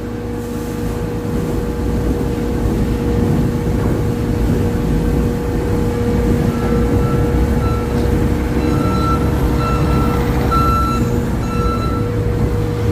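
Semi truck's diesel engine running steadily with a constant low drone. From about halfway through, a run of short high-pitched beeps sounds several times over the engine.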